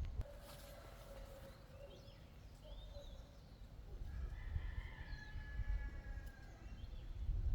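A rooster crowing: two long calls, the second higher-pitched, with small birds chirping now and then.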